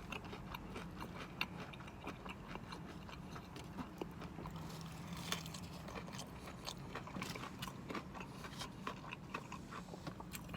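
Close-up chewing of breaded chicken tenders: many small, irregular wet mouth clicks and soft crunches.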